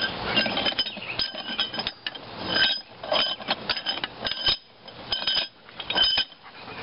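Blacksmith's steel tools clinking against a hot railroad spike as its handle is worked for a twist. The contacts come irregularly, a dozen or so light metallic strikes, each leaving a short ring.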